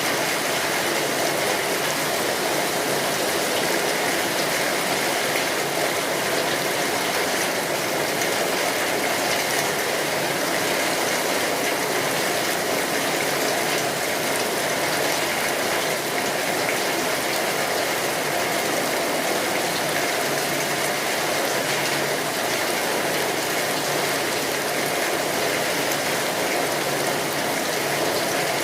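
Steady, even rainfall, a dense continuous hiss of rain with no breaks or single drops standing out.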